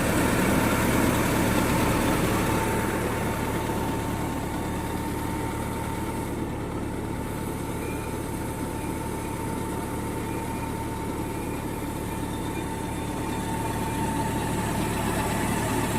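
Truck engine idling with its cab tilted forward, running fast even with no accelerator pressed. A thin steady whine rides over the even engine hum.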